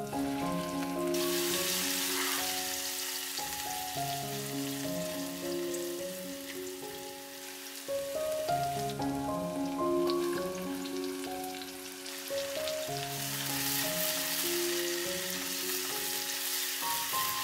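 Chopped garlic and sliced onion sizzling as they fry in hot oil in a stainless steel pressure cooker pan, stirred with a wooden spatula. The sizzling sets in about a second in and swells again near the end, over background music with held notes.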